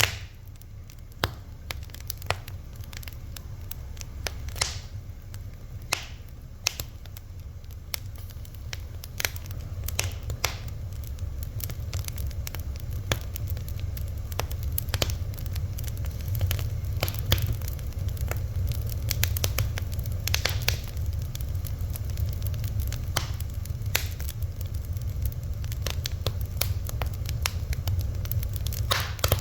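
Wood fire crackling: irregular sharp pops and snaps, several a second at times, over a steady low rumble of the burning.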